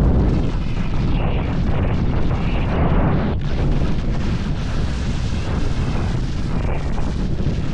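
Wind buffeting the microphone during a downhill ski run, a loud, steady rumble, mixed with the hiss of skis sliding over snow; it eases briefly about three seconds in.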